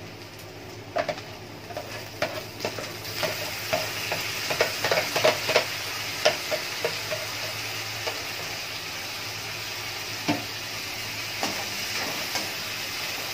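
Chopped tomatoes going into a steel kadhai of hot oil and browned onions and sizzling there, with a steady frying hiss. A run of sharp metallic knocks and scrapes of utensils against the pan is heard over the first half, and a spatula stirs the mixture.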